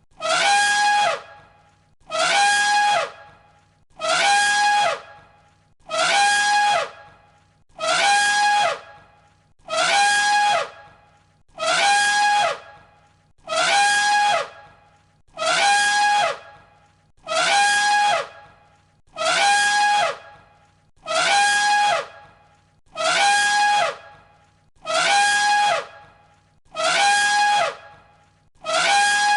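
Elephant trumpeting: the same brassy trumpet call, each about a second long with a slide down in pitch at its end, looped over and over about every two seconds.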